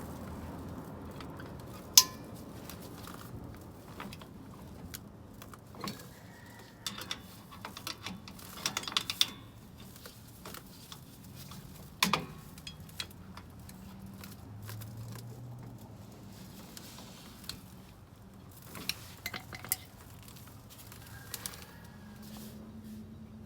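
Scattered metallic clinks and clicks of tools and brake parts being handled, with a sharp clank about two seconds in, a quick cluster of clinks around eight to nine seconds in and another clank about twelve seconds in.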